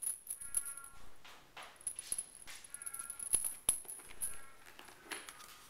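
RagaMuffin kittens mewing: several short high-pitched mews, with scattered light taps and clicks.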